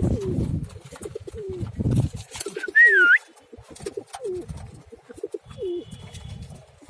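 Pigeons cooing, repeated low falling coos. About three seconds in there is one short, loud, high whistling note that wavers in pitch.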